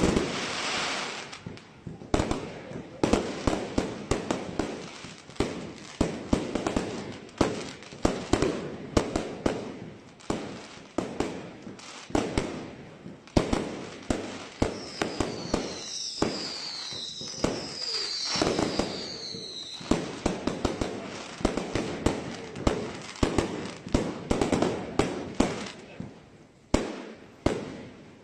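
Professional fireworks display: rapid, repeated shell bursts and bangs. About halfway through, a few falling whistles sound among them.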